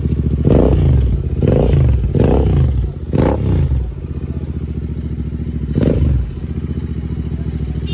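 Royal Enfield twin-cylinder motorcycle engine on an aftermarket exhaust, revved in quick throttle blips: four in the first few seconds, then a steady idle, then one more blip near the end.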